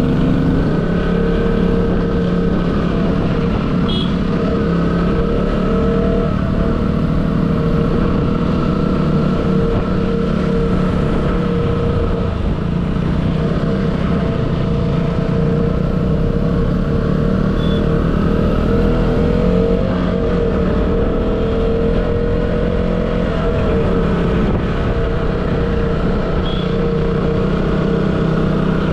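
Motorcycle engine running at a fairly steady speed while riding, its pitch wavering only slightly, over a heavy low rumble of road and wind noise.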